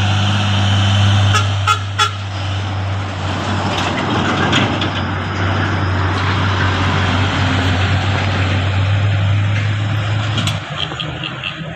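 Mitsubishi Canter truck's engine running steadily with a deep drone, with a few sharp clicks about one and a half to two seconds in. Short horn toots come near the end, as the engine note drops and changes.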